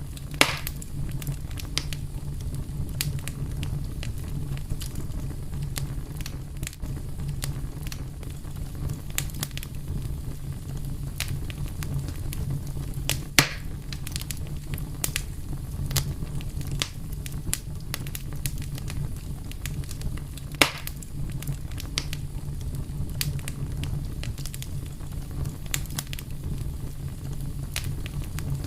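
Wood fire burning with a steady low rumble and irregular crackling, with three louder pops standing out, about half a second in, about halfway and about two-thirds of the way through.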